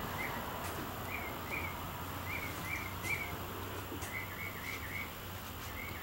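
A bird chirping over and over, short chirps every half second or so in loose groups, over a steady low hum.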